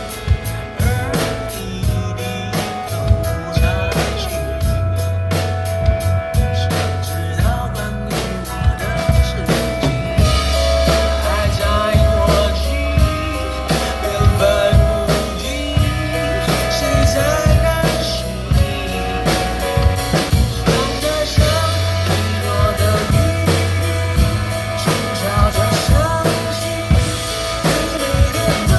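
Drum kit played live with a steady beat of kick, snare and cymbals, along to a recorded pop-song backing track with bass and melody.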